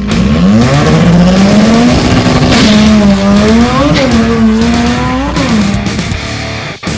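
Toyota drag car's engine revving hard: the pitch climbs steeply in the first second or two, is held high with a few brief dips, then falls away near the end.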